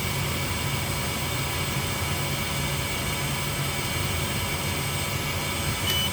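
xTool F2 laser engraver running steadily with a fan hum and hiss while it cuts a circle through black acrylic, with a short high beep near the end.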